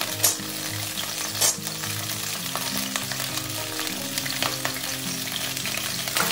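Broccoli florets sizzling steadily as they fry in hot refined vegetable oil in a steel kadai, with a few sharp knocks against the pan as more florets are dropped in.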